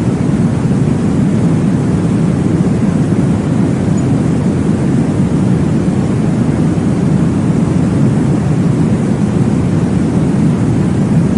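Steady, deep whooshing noise from a baby-sleep white noise track, heavy in the low end with little hiss and no beat or change.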